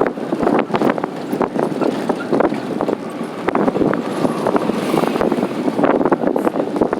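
Vehicle on the move: steady road and wind noise with frequent short knocks and rattles.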